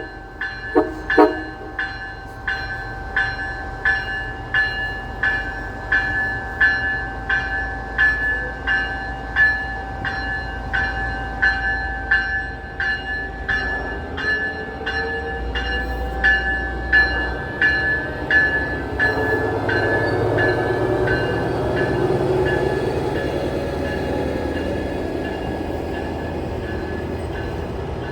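A railroad crossing bell rings about twice a second with a steady ringing tone, then fades out after about eighteen seconds. Meanwhile a train's low rumble and the rolling noise of its wheels on the rails build up and take over near the end.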